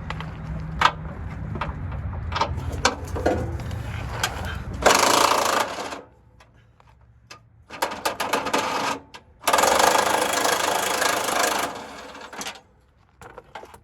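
Impact wrench hammering in three bursts of one to two seconds each. Before the bursts come scattered metal clinks over a low hum.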